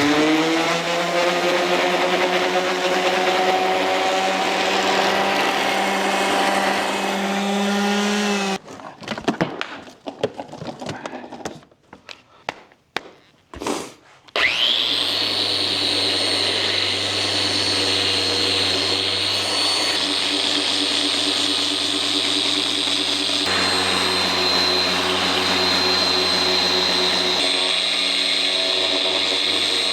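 Power grinder spinning up and running steadily, grinding down a MIG weld on an aluminum wheel. Partway through it stops, gives several short blips, then spins up again to a higher steady whine.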